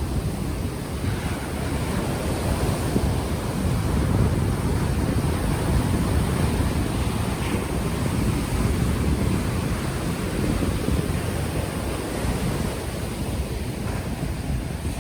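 Ocean waves breaking and washing onto the shore, with wind buffeting the unshielded microphone in a steady low rumble.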